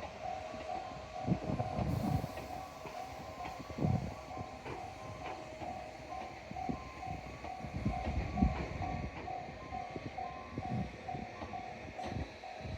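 An electric train running past with heavy wheel knocks over the rail joints, under a level-crossing warning bell ringing in an even, repeating two-tone pattern.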